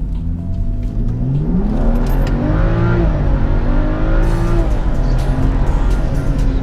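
Modified BMW 435i's turbocharged inline-six, with catless downpipes and a JB4 tune, accelerating hard through the gears: the engine note climbs steeply, drops back at an upshift about three seconds in, climbs again and drops at a second upshift about four and a half seconds in.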